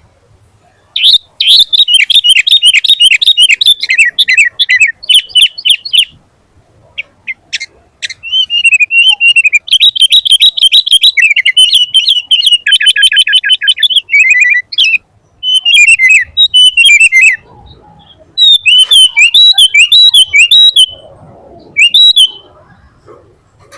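Sooty-headed bulbul (kutilang) singing loudly in bouts of rapid, chattering phrases, with short pauses between bouts and a longer pause about six seconds in.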